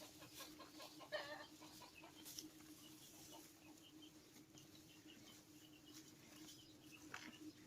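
Chickens clucking faintly, with one short, louder call about a second in, over a steady low hum.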